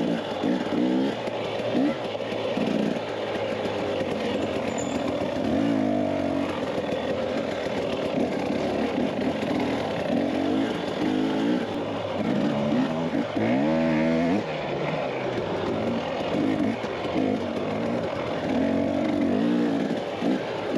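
Dirt bike engine revving up and easing off again and again as the bike is ridden, over a steady rushing noise.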